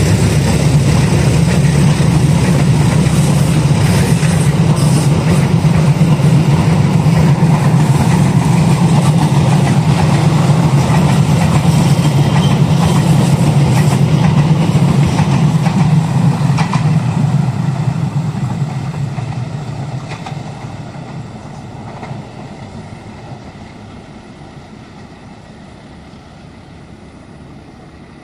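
A diesel-electric locomotive-hauled passenger train passing, its engine drone and wheel-on-rail noise loud and steady, then fading away over the last ten seconds or so as the train recedes.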